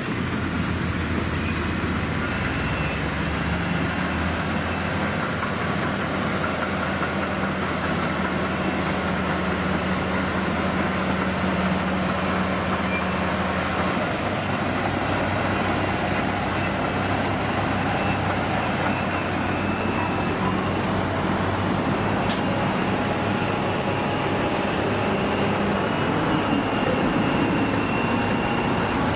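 Heavy vehicle diesel engine running steadily; its note changes about 14 seconds in, and a single sharp click sounds about 22 seconds in.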